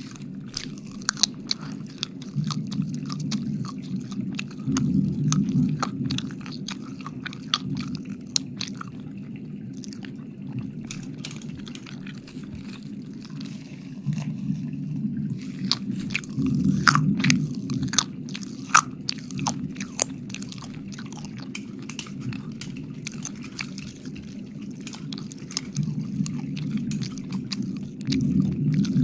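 Close-up wet mouth sounds: licking and smacking right at the microphone, a dense, irregular run of wet clicks and pops over a low rumble that swells a few times.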